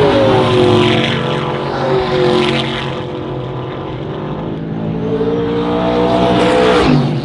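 Trans Am race cars' V8 engines at racing speed. The engine note drops in pitch and fades over the first few seconds, then rises and grows louder again toward the end.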